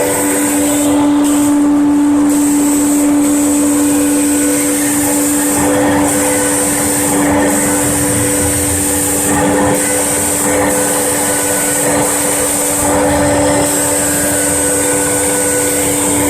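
Homemade CNC engraving machine cutting letters into granite: the spindle motor runs at a steady pitch under a high grinding hiss that dips briefly every second or two as the tool works the stone.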